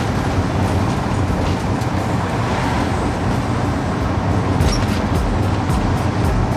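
Nissan Cedric Wagon 6's L20A straight-six with a single carburettor running steadily while driving, with road and tyre noise.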